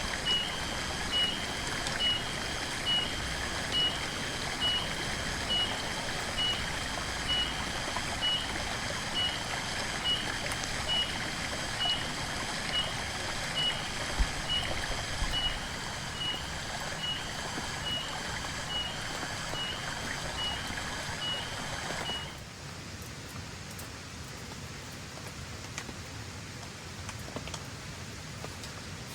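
Steady rain with a high, short chirp repeating about once a second over it. About three quarters of the way through, the chirping stops abruptly and the rain becomes quieter.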